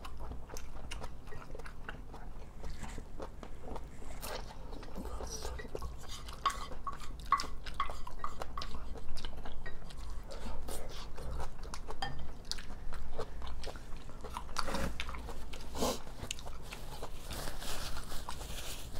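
Close-miked eating: two people chewing and biting rice-bowl dishes and side dishes, with many small wet mouth clicks throughout.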